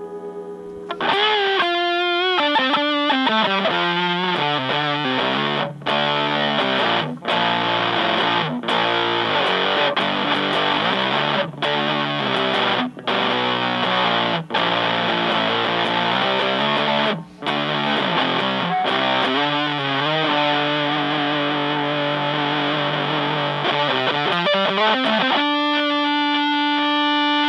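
Fender Stratocaster played through a Power-Fuzz silicon fuzz pedal into a Fender Blues Junior amp: a heavily fuzzed electric-guitar riff with wavering bent notes and several short stops, ending on a held note.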